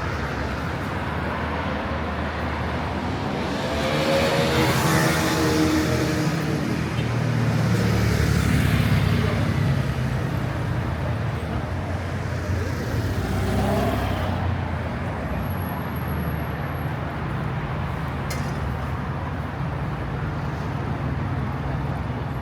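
City street traffic: a steady hum of engines and tyres, with vehicles passing close by about four seconds in and again around thirteen seconds.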